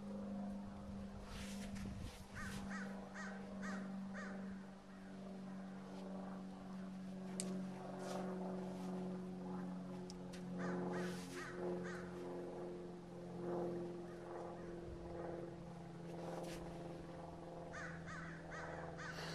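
Birds calling in short repeated series over a steady low hum.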